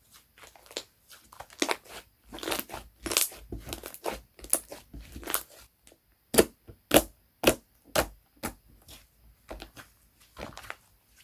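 Slime being squeezed and poked by hand, making crackly squishes and pops; partway through comes a run of louder sharp pops, about two a second.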